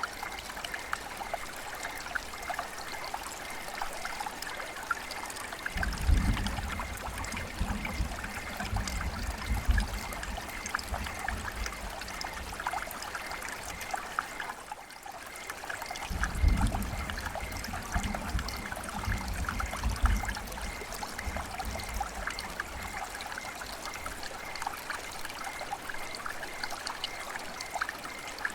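River water flowing and trickling: a steady babble with many small splashes. Twice, for about five seconds each, a low rumble joins in, about six seconds in and again about sixteen seconds in.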